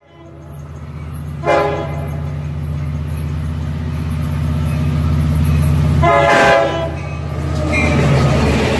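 Long Island Rail Road diesel-hauled push-pull train of bi-level coaches approaching and passing. Its horn sounds twice, a short blast about a second and a half in and a longer one about six seconds in, over a low engine rumble that grows louder as it nears. Near the end the coaches go by with wheel and rail noise.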